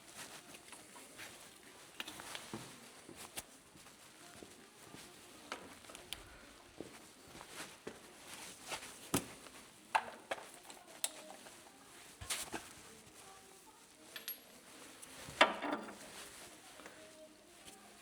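Scattered clinks and taps of metal hand tools and fasteners being handled while a coilover is taken off a car, with a few sharper knocks along the way.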